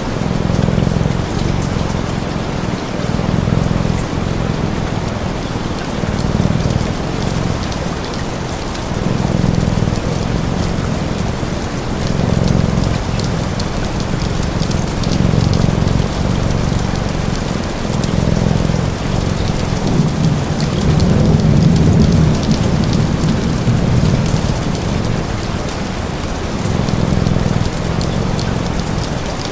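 Steady rain, with a low rumble underneath that swells and fades about every couple of seconds, and faint crackling ticks.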